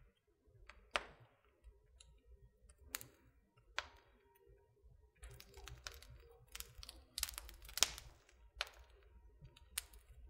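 Wood fire crackling in a fireplace: irregular sharp snaps and pops, thickening into a quick cluster about five to eight seconds in.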